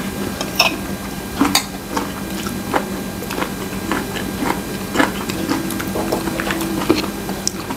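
A person chewing a mouthful of Mexican rice while tasting it: scattered small mouth clicks and smacks over a steady low hum.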